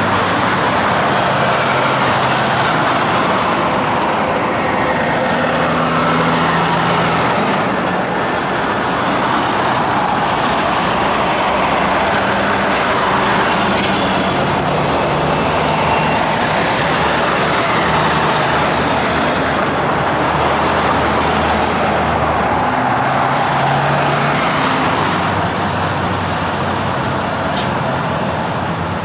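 Heavy highway traffic: a steady rush of tyre noise with the diesel engines of semi-trucks passing one after another.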